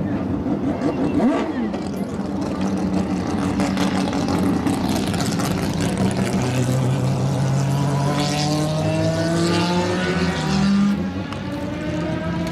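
Several racing engines running at once, one sweeping past about a second in; from about halfway through, their pitch climbs steadily as they rev up and accelerate.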